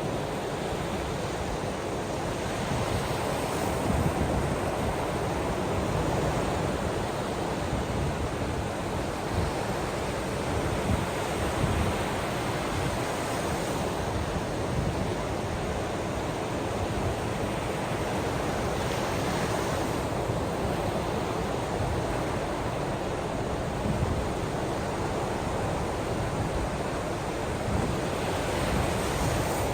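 Ocean waves washing on the shore, a steady rushing noise that swells and eases gently every few seconds.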